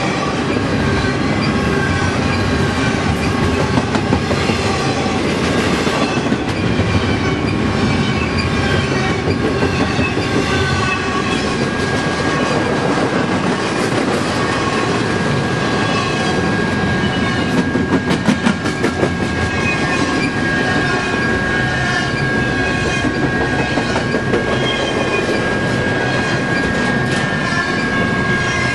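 Double-stack intermodal freight train passing close by: a steady rumble and clatter of its container well cars' wheels on the rails, with a thin steady high squeal. A brief run of rapid clattering comes about two-thirds of the way through.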